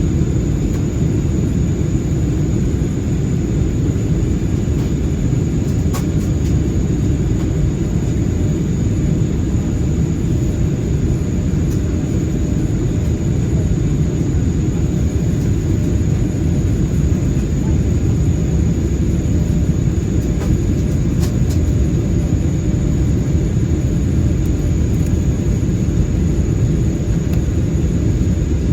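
Steady cabin rumble of an Airbus A320-216 in flight, the airflow and CFM56 engine noise heard from a rear window seat. A thin high whine holds throughout, and there are a couple of faint clicks.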